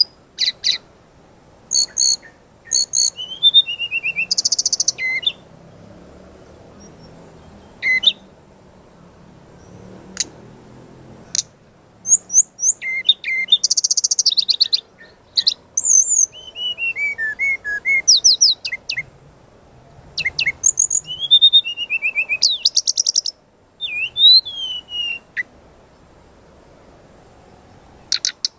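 Brown-chested jungle flycatcher singing in bursts of fast, high, sweeping notes and rapid trills, with pauses of a second or more between phrases and a longer pause near the end.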